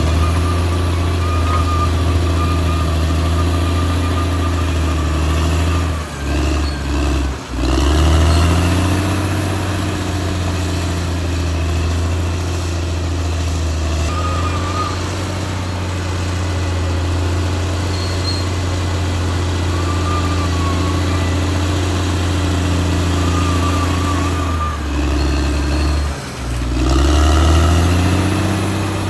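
Caterpillar D6R XL bulldozer's diesel engine running steadily under work, with a wavering high squeal now and then. Twice, about six seconds in and again near the end, the engine sound drops briefly and then climbs back up in pitch as it revs up again.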